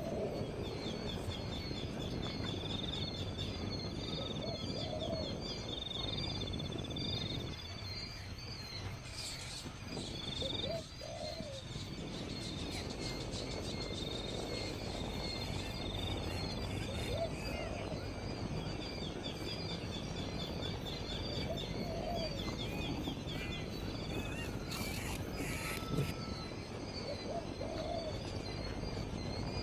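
A bird's low hooting note, repeated about every five or six seconds, over a steady chorus of high insect trills.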